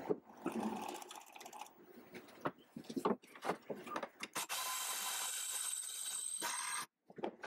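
Knocks and clicks of tools and metal parts being handled, then a power drill running steadily for about two and a half seconds and cutting off suddenly.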